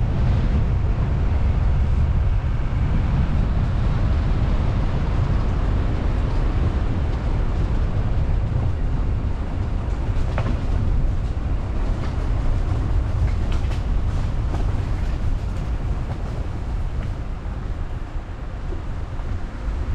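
Car driving steadily: a constant low rumble of road and wind noise picked up by a car-mounted action camera.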